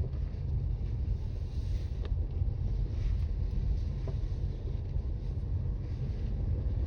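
Toyota Raize SUV driving on a snowy road, heard from inside the cabin: a steady low rumble of tyres and engine.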